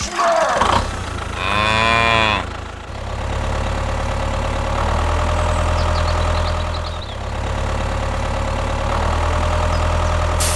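A cow moos once, a long call about a second and a half in, over an engine running steadily that continues after the moo ends.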